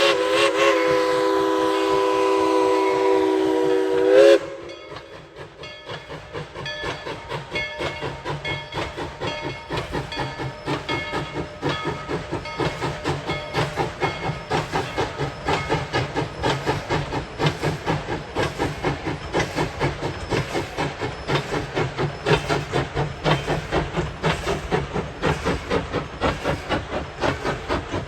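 Steam locomotive No. 190 blowing a long chime whistle, several notes sounding together, that cuts off about four seconds in. Its exhaust then chuffs in an even rhythm with hissing steam, growing louder as the engine works.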